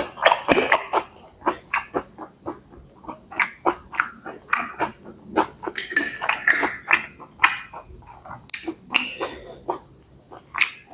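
Close-miked eating sounds: chewing and slurping of stir-fried rice noodles, an irregular stream of wet mouth clicks and smacks.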